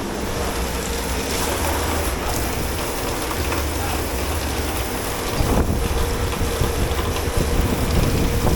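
Dish pit noise: a steady machine hum under continuous rushing noise, which grows louder and more uneven about five seconds in.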